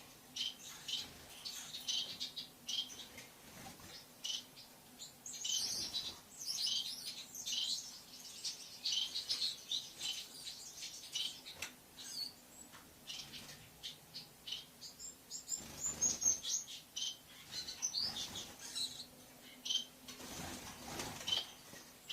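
Lovebird chirping: rapid, irregular bursts of short, shrill high chirps with brief pauses between them.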